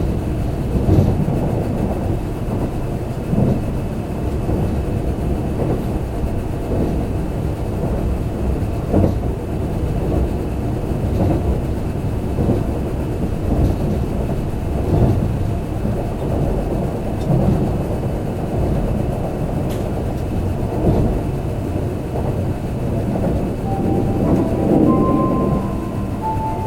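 Cabin running noise of a Kintetsu limited express train at speed: a steady rumble of wheels on rail with irregular louder knocks. Near the end, a short chime melody starts, the lead-in to the automatic next-stop announcement.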